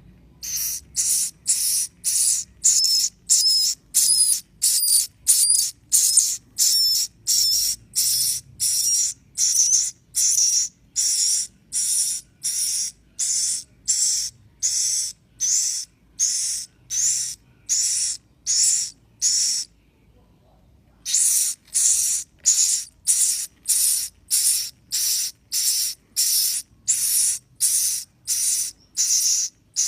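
Edible-nest swiftlet chicks calling: short, high, hissing chirps repeated evenly at about two a second, with a pause of about a second and a half about two-thirds of the way through.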